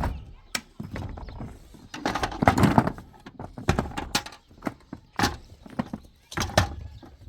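A series of irregular knocks and clattering thumps, busiest about two seconds in.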